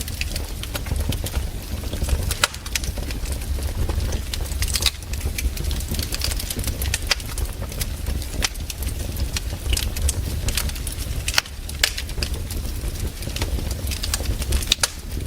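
Campfire crackling, with irregular sharp pops and snaps from the burning wood over a low steady rumble.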